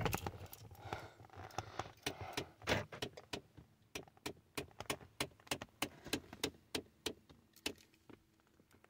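Repeated sharp clicking, about three clicks a second and slightly uneven, from a 2017 Ford Expedition's 3.5 L EcoBoost V6, heard from inside the cabin. Owner forums take it for a sign that the engine is losing oil pressure and needs an oil change.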